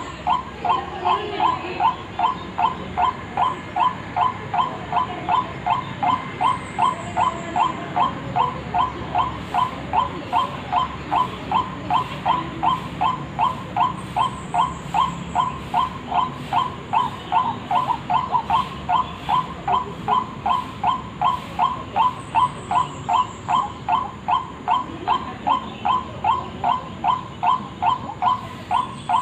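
White-breasted waterhen (ruak-ruak) lure call: a short call repeated evenly at about two a second, on and on without a break.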